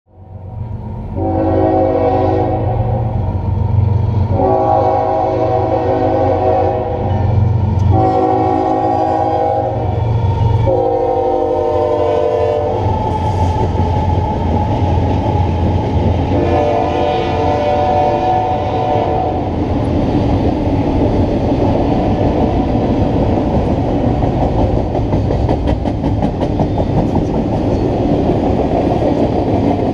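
Diesel freight locomotive horn sounding four long blasts over the locomotives' low engine rumble, the fourth dropping in pitch as the locomotives pass. Then comes the steady rolling noise and wheel clatter of double-stack container cars going by, with one more horn blast partway through.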